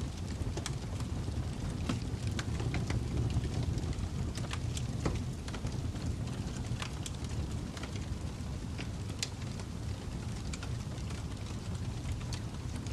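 Crackling fire: a steady low rumble of flames with irregular sharp pops and snaps.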